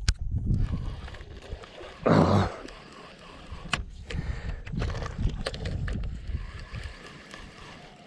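Water sloshing and splashing against a small skiff, with scattered knocks and one louder splash about two seconds in.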